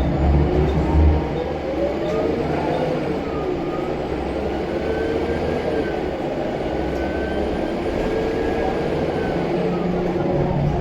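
Scania L94UB bus's diesel engine running under way, its turbocharger whistling in a thin tone that slowly rises about halfway through and falls away again near the end.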